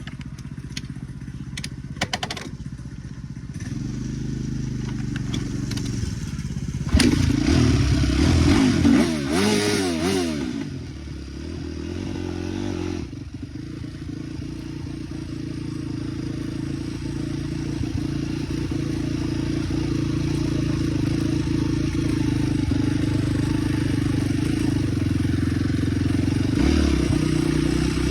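Dirt bike engine starting: a few clicks and knocks, then the engine catches about three to four seconds in. It is revved up and down hard for a few seconds, then settles into steady running that grows slowly louder.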